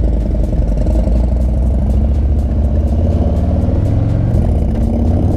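Harley-Davidson V-twin motorcycle engine running steadily while riding, heard from the rider's helmet or bike microphone.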